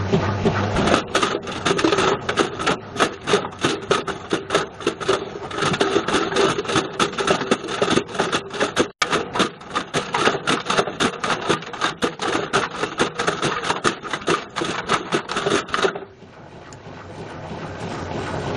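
A Bush VCR807 video recorder tumbling in a Beko washing machine's drum, clattering against the drum in rapid, irregular knocks. About two seconds before the end the knocking stops and the sound drops, then builds again.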